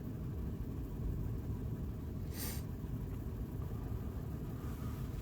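Steady low rumble of a vehicle engine running, with a brief hiss about two and a half seconds in.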